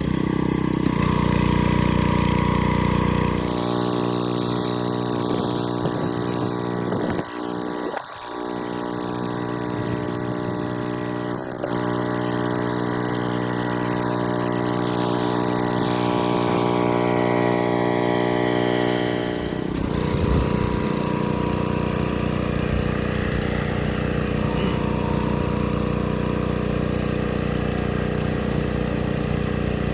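Pressure washer's gas engine running steadily under a hiss of water spray. The engine note changes abruptly twice, about 3.5 and 20 seconds in.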